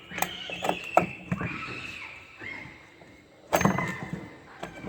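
Metal knocks and clinks with some scraping as Honda Activa scooter engine case parts are fitted back together by hand. The loudest cluster of knocks comes a little past halfway.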